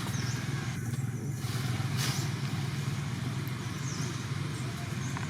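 Steady low rumble under a constant hiss, with a few faint, short, high chirps.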